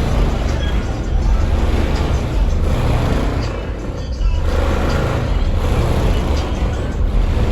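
Loud bass-heavy music played through four Sundown Audio X-8 v3 8-inch subwoofers in a car, driven by a Crossfire C7 4k amplifier, with a deep low end.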